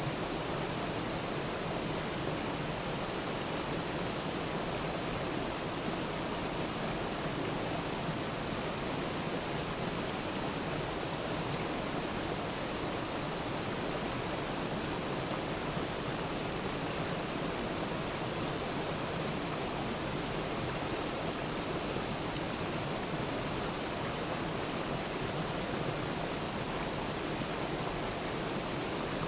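Waterfall: water pouring and splashing in a steady, even rush that does not change.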